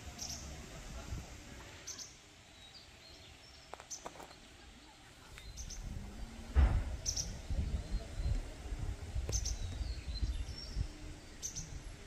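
A bird chirping, short high calls repeated about every two seconds, over a faint outdoor hiss. From about halfway, low rumbling thumps on the microphone are louder than the bird.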